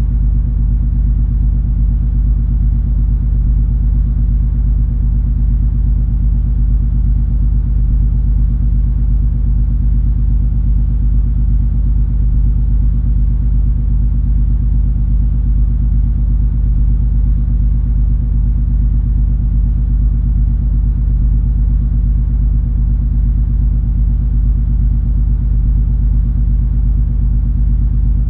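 Steady low drone of the MS Color Fantasy cruise ferry's engines and hull under way, a deep rumble with a constant hum.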